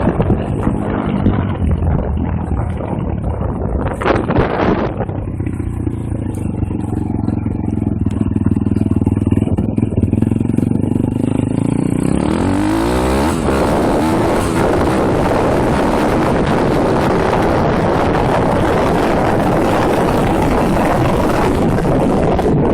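M2R KX140 pit bike's 140cc single-cylinder four-stroke engine running at low revs, then opened up about halfway through, the note rising as it revs hard and pulls at speed, with wind rushing over the microphone.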